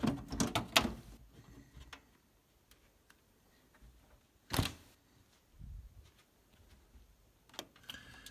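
Handling noise of a phone being moved about: a cluster of sharp clicks and knocks in the first second, one louder knock about four and a half seconds in, and a few light taps near the end, with near quiet between.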